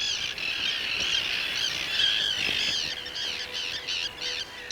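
Common tern colony: many terns calling at once, a dense chorus of short, high, arched calls that thins into a quick run of separate calls in the second half.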